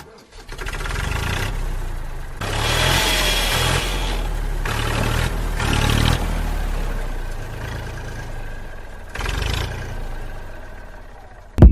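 Small engine running, its speed rising and falling several times.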